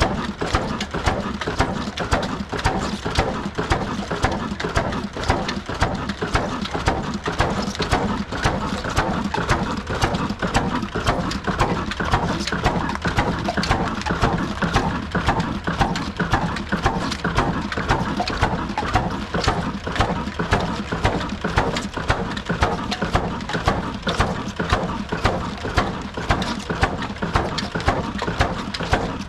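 Old single-cylinder diesel stationary engine running steadily under load, driving a flour mill (aata chakki), with a regular loud beat a little more than once a second over rapid knocking.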